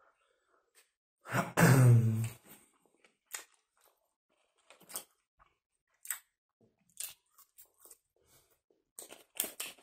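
A man chewing a kebab sandwich, with scattered short mouth clicks and smacks every second or so. About a second and a half in there is one loud, low throaty vocal noise lasting about a second.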